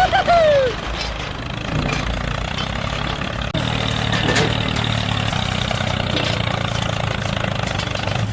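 Small engine of a DIY mini tractor running steadily, with a constant low hum. Partway through there is an abrupt jump in the sound, like an edit cut.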